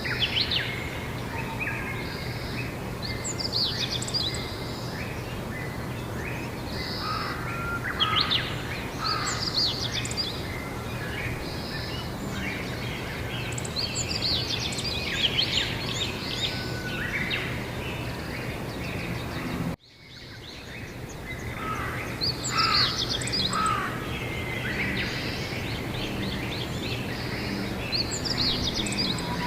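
Several songbirds singing and chirping in short phrases over a steady outdoor background noise with a low hum. About two-thirds of the way through the sound cuts out abruptly and fades back in.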